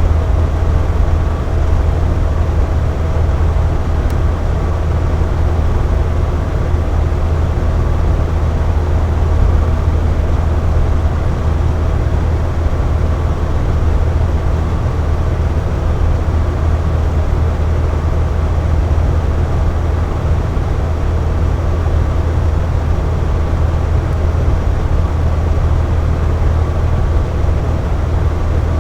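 Box fan running steadily: a constant whoosh of moving air over a deep, even motor hum, with a faint steady tone above it.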